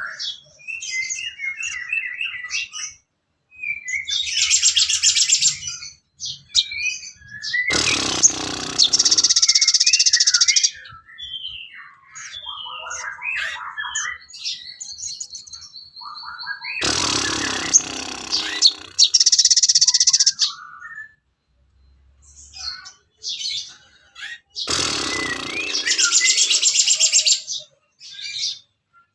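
Sogon bird song: a run of quick high chirps and short trills, broken three times by a loud, harsh burst of song about eight seconds apart.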